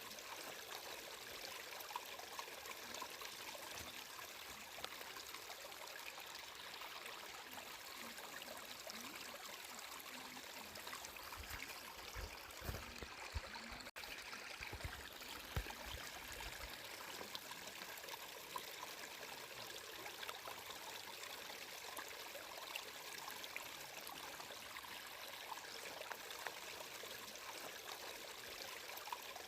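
Flowing water running steadily, with a few low rumbles near the middle.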